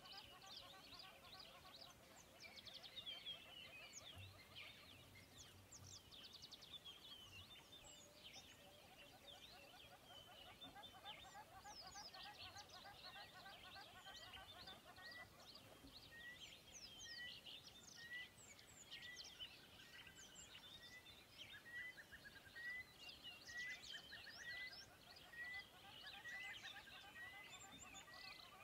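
Faint birdsong: many birds chirping and trilling together, and from about halfway on one bird repeating a short rising note about once a second.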